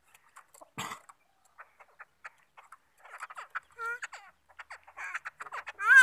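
A caged black bird calling: scattered clicks and harsh, croaking chatter, with a few short pitched whistled notes in the second half. The loudest call comes right at the end.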